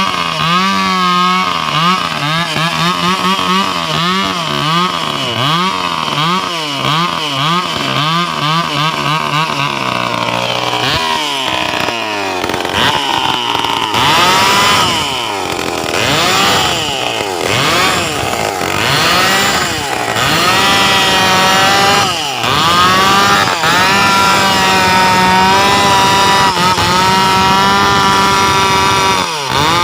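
Stihl two-stroke chainsaw engine being revved over and over, its pitch rising and falling about once a second. About halfway through it is held at high revs, dropping briefly now and then.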